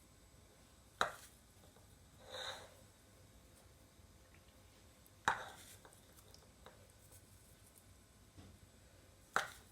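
Three sharp taps of a container or utensil on a hard kitchen surface, about four seconds apart, with a brief rustling shake about two and a half seconds in, as dried parsley is sprinkled over the rolls.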